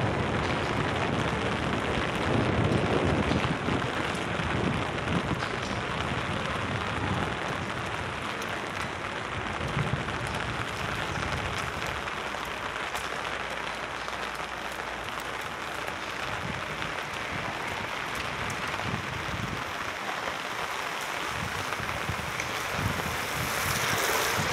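Steady rain falling on wet paved street, an even hiss.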